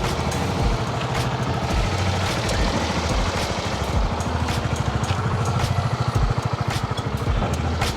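A small engine, likely a motorcycle's, running steadily with a fast, even pulse.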